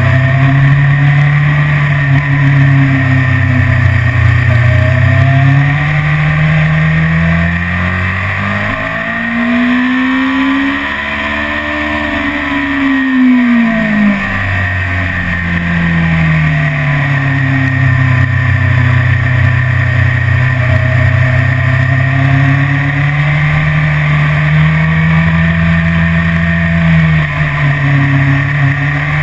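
BMW S1000RR's inline-four engine running hard on track, its pitch mostly fairly steady with gentle rises and dips. About a third of the way in the revs climb for several seconds, then drop quickly.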